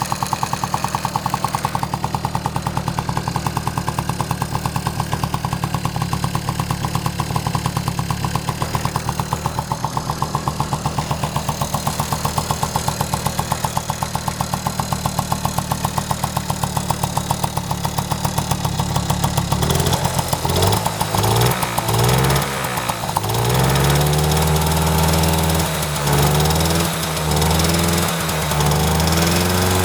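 Honda Motocompo's small 49cc two-stroke single idling with an even, fast putter, then blipped up and down several times from about two-thirds of the way in, its exhaust note rising and falling with each rev.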